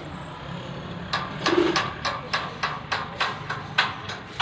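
Tractor engine chugging, with an even beat of about three to four sharp exhaust puffs a second that sets in about a second in, over a low hum.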